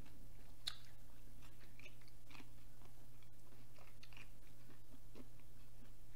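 Close-miked chewing of a mouthful of barbecued pork rib: soft, scattered wet mouth clicks over a steady low hum.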